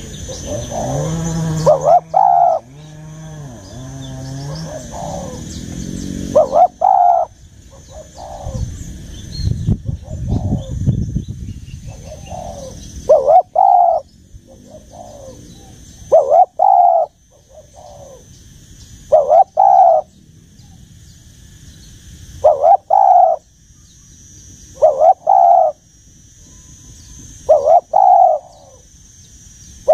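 Spotted dove (cu gáy) cooing: a deep, old-sounding coo repeated in short phrases about every three seconds. During the first few seconds a lower wavering pitched sound is also heard, and a faint steady high whine runs underneath.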